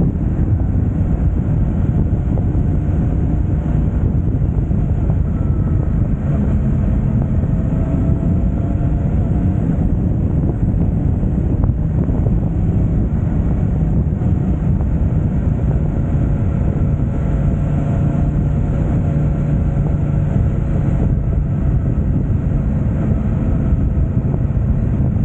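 Yamaha YZF-R1 crossplane inline-four running through an Akrapovic exhaust at steady revs, its pitch rising and falling gently.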